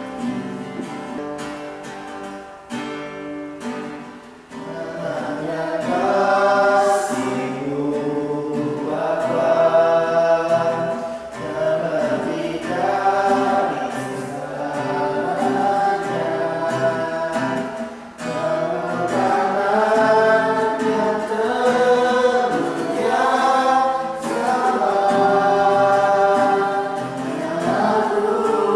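Acoustic guitar strumming, joined about five seconds in by a group of voices singing a worship song along with it.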